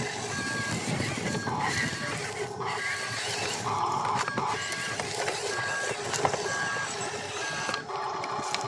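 RC construction truck sounding a repeating two-tone electronic beep, high and low tones alternating, over a continuous noisy mechanical background.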